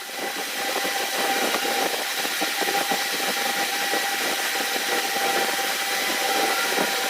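A motor running steadily with a constant whine over a rough, rushing noise, starting at the beginning and running on without a change in speed.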